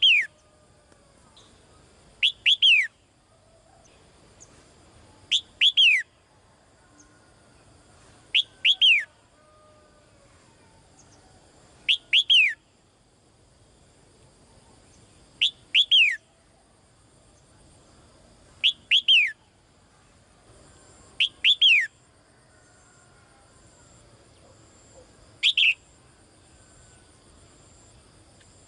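A caged female songbird calling again and again, about every three seconds. Each call is a short note followed by two quick whistles sliding downward. It is a female's call to a male.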